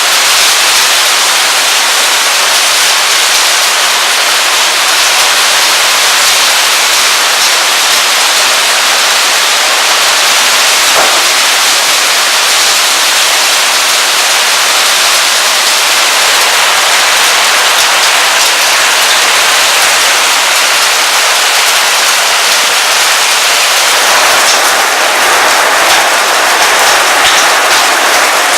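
Heavy hail and rain coming down, a dense steady clatter of hailstones striking hard surfaces.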